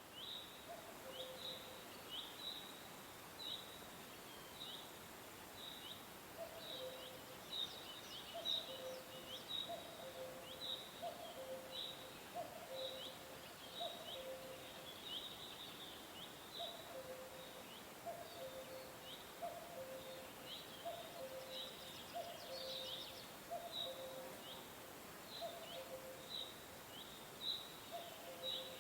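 Birds calling: one repeats short, high, downward-sliding chirps about twice a second, while a lower two-note call repeats about once a second, mostly from about six seconds in, over a steady background hiss.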